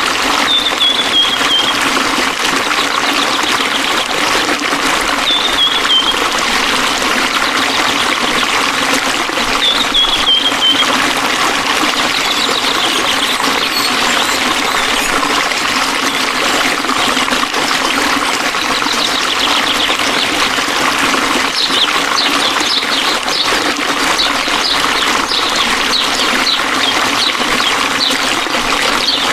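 Flowing water trickling and splashing steadily. A bird gives a short falling whistle three times in the first ten seconds, then chirps briefly and often from about halfway on.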